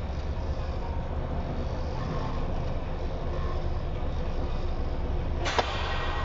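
Steady low rumble of a moving road vehicle, with one sharp click about five and a half seconds in.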